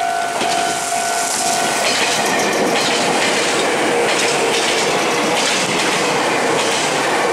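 Meitetsu 6000-series electric train passing close by at speed, its wheels clattering over rail joints in a steady rhythm over the running rumble.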